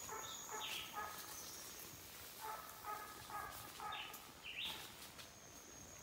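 Faint bird calls: a few short, repeated pitched phrases over quiet outdoor background noise.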